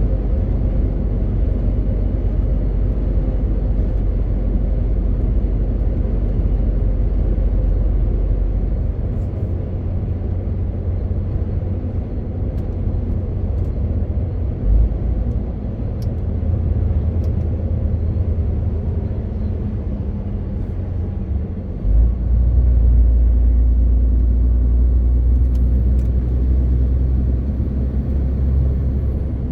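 MAN TGX 18.520 truck's diesel engine running on the move, with road noise. The deep engine rumble eases off about nine seconds in and comes back strongly about twenty-two seconds in.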